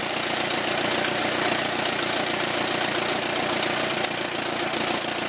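An engine idling steadily, with an even, rapid beat.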